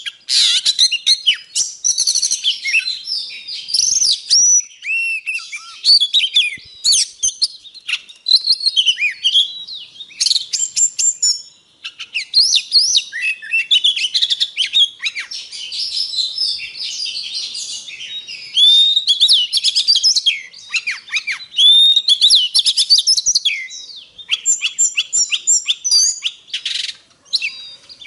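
Oriental magpie-robin singing a fast, varied song of rising and falling whistles and trills, almost without a break apart from a short pause about twelve seconds in.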